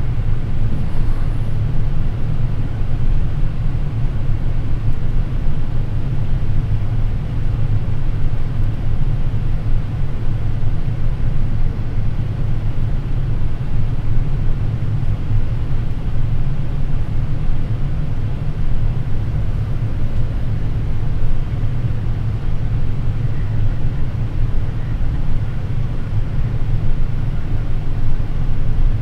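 Steady low rumble of airflow and engines in the flight deck of a Boeing 787 Dreamliner on final approach, with gear down and flaps at 30.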